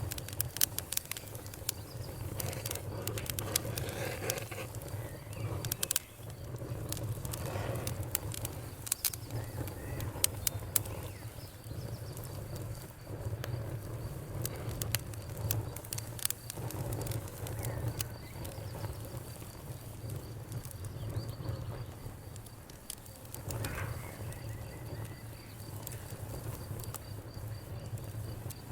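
Outdoor wood fire crackling and popping in sharp irregular snaps over a low steady rumble, with a faint steady cricket chirping and a few bird calls, one of them clearer about three-quarters of the way through.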